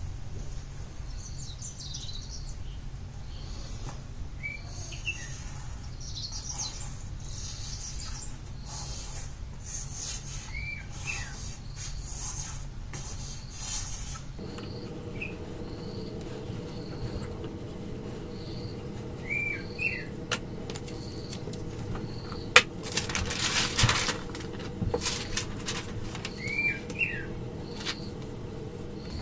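Birds chirping: a short rising-and-falling call every few seconds and a faint high note repeating about once a second. From about two-thirds of the way in come bursts of scratching and rustling, with one sharp click, as charcoal and paper are worked.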